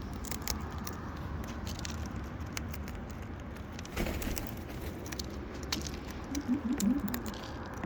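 Wild parrots feeding on seed: scattered small clicks and crackles of beaks working the seed, over a steady low background rumble.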